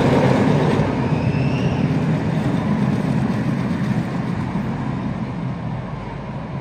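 Roller coaster train running along its track, a steady loud rumble and rushing noise that slowly gets quieter, with a faint rising squeal about a second in.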